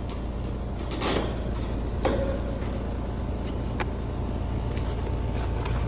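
Residential AC condenser running with a steady low hum after its failed dual run capacitor has been replaced, with a few knocks and clatters from handling, the loudest about one and two seconds in.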